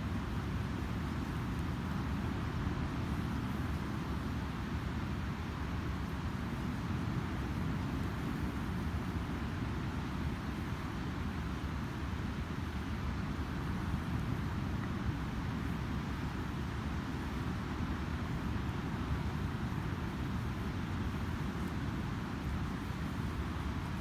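Ocean surf breaking on a sandy beach: a steady, unbroken rumble and wash of waves.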